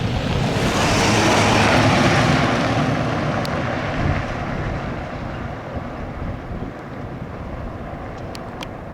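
An aircraft flying over: a rushing engine noise with a low hum that builds to its loudest about two seconds in, then slowly fades away.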